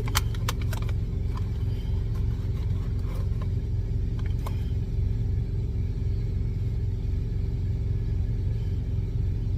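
A semi-truck's diesel engine idling with a steady low rumble. A few light clicks and taps come in the first second, with a couple more a few seconds in.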